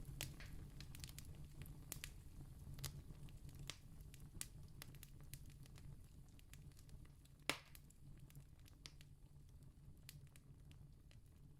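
Wood fire crackling softly with scattered pops, one louder pop about two-thirds of the way through, over a faint steady low rumble, slowly fading.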